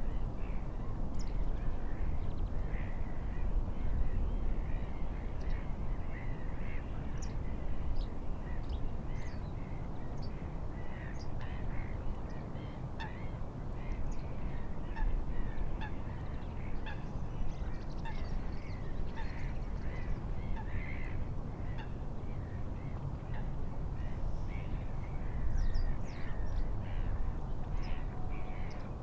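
Birds calling throughout, many short overlapping calls, over a steady low rush of wind and waves.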